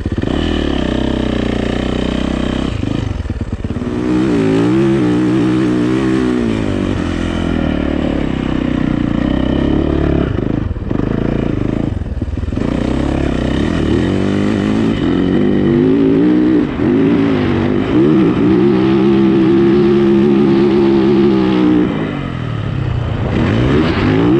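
Yamaha YZ450 four-stroke dirt bike engine revving hard under load while riding, its pitch climbing and falling with throttle and gear changes. There are brief throttle cuts about 3, 11 and 12 seconds in, and near the end the revs drop away and build again.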